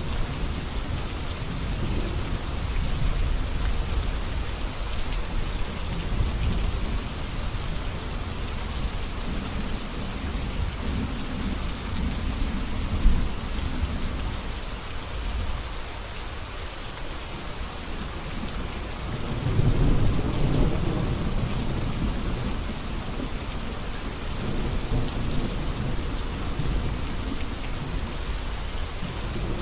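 Steady heavy rain with low, rolling thunder that swells and fades, the biggest roll coming about two-thirds of the way through, and one brief sharp peak a little under halfway.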